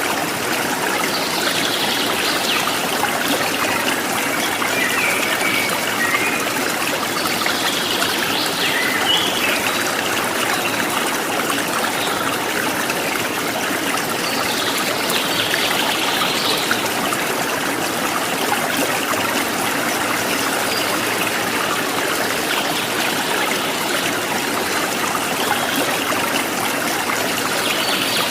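Stream running steadily, with a few short bird calls now and then.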